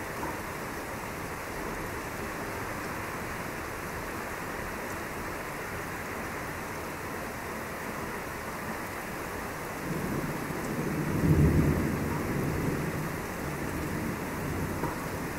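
Steady rain falling, with a roll of thunder about ten seconds in: a low rumble that swells, peaks and dies away over about four seconds.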